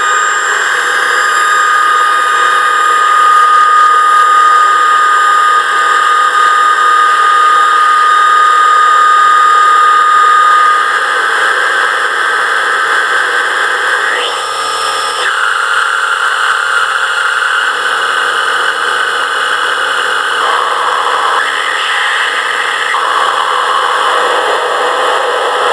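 Electronic noise music: a dense, loud noisy drone with a steady high tone that stops about ten seconds in, the texture shifting about fifteen seconds in and again near twenty seconds.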